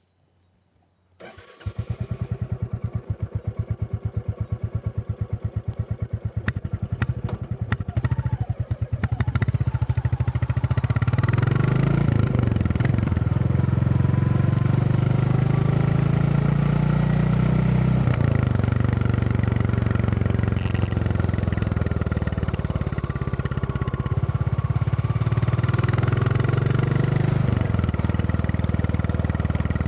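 Royal Enfield Classic 350 single-cylinder engine starting about a second in and idling with a slow, even thump, then pulling away and accelerating, its note dipping about three times at the gear changes.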